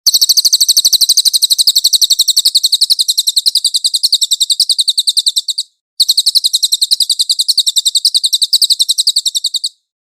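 A cililin bird singing a rapid, high-pitched trill of evenly repeated notes, about a dozen a second, in two long runs with a brief break between them.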